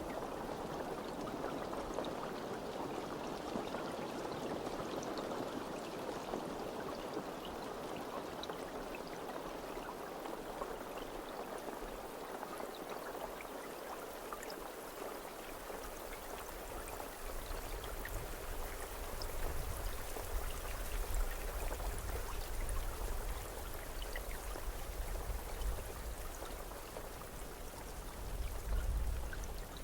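Steady rain falling, a continuous hiss with scattered individual drops ticking through it. Low rumbling comes and goes in the second half.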